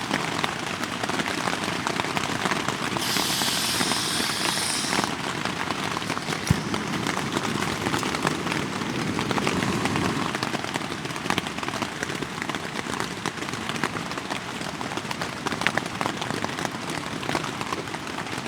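Steady rain pattering, a dense crackle of drops. About three seconds in there is a brief high hiss lasting a couple of seconds, and a single knock a few seconds later.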